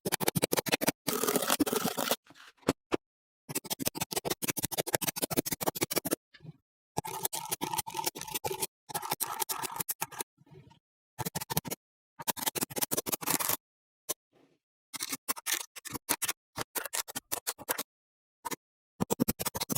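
Small magnetic balls clicking and clattering together in rapid runs of sharp clicks, several bursts of a second or two each broken by abrupt silences.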